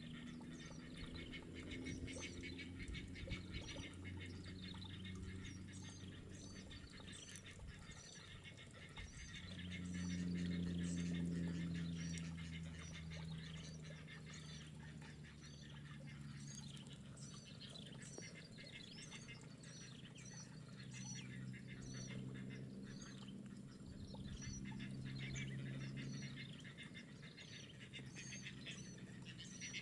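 Faint chirping of small birds, many short high calls repeating throughout, over a low hum that swells twice, about a third of the way in and again near the end.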